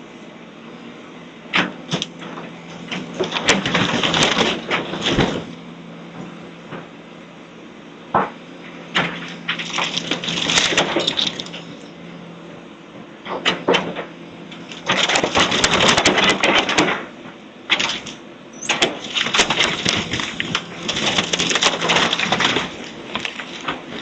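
Demolition debris cracking, crunching and crashing in repeated bursts of a second or two, with sharp single knocks between, over the steady hum of a heavy machine's engine.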